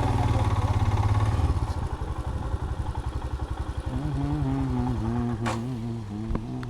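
A vehicle engine running at low revs with a fast pulsing note, settling into a steadier idle about four seconds in, while the vehicle is moved into a parking spot; a couple of short clicks near the end.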